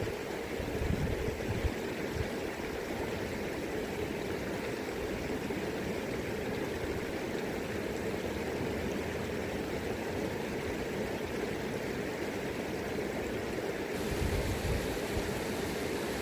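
River current running steadily, a constant rushing and gurgling of water. Low rumbles of wind on the microphone come about a second in and again near the end.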